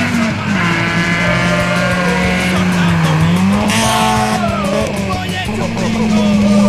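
Rally car engine revving hard as it accelerates, its pitch rising, dropping back and rising again through gear changes, with a burst of tyre and gravel noise about four seconds in. Music plays underneath.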